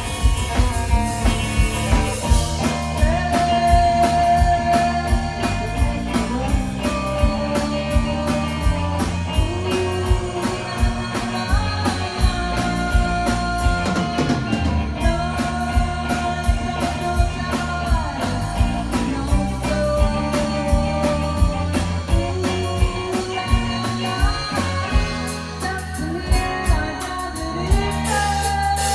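Live rock band playing a spacey, psychedelic-leaning song: electric guitar lines, some held and some gliding in pitch, over bass and a drum kit keeping a steady beat.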